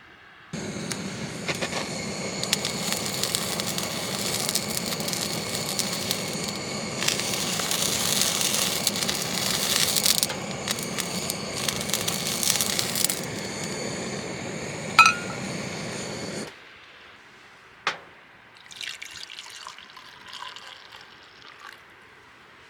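Water running steadily for about sixteen seconds, starting and cutting off suddenly, with a short ringing clink near the end and a single knock about a second after it stops.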